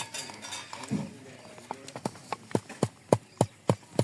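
Rhythmic knocking from food preparation in a kitchen. It comes about three knocks a second over the last two seconds and gets louder toward the end.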